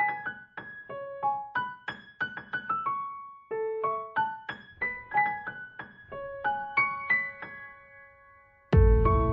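Background music: a light piano-like melody of single struck notes, each ringing and fading. Near the end it drops quiet for a moment, then a louder, fuller passage with a deep low end comes in.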